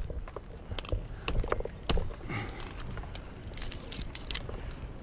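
Metal climbing and rigging hardware clinking and jangling in scattered, irregular light clicks.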